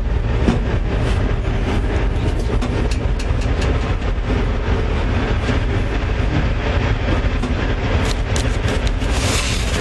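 Low rumble of wind on the microphone, with a steady run of short clicks and scuffs from footsteps and the camera being handled as someone climbs down and walks.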